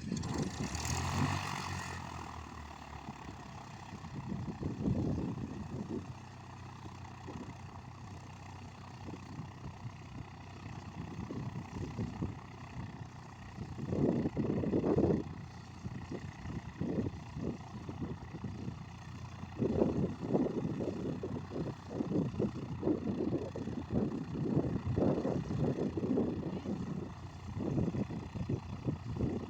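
Cessna 152's four-cylinder Lycoming O-235 engine droning steadily, with an uneven low rumble rising and falling over it.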